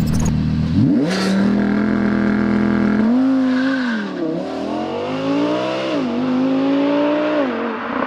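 A car engine accelerating hard, its pitch climbing and then dropping sharply at gear changes about four and six seconds in, with another drop near the end.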